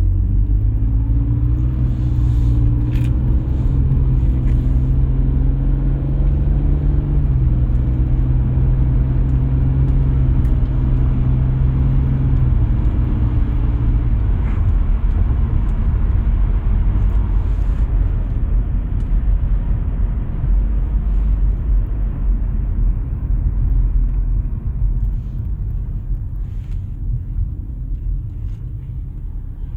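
BMW E46 330i ZHP's 3.0-litre inline-six idling after a cold start. The idle pitch steps down about seven seconds in and settles into a lower, even rumble as the fast cold idle drops.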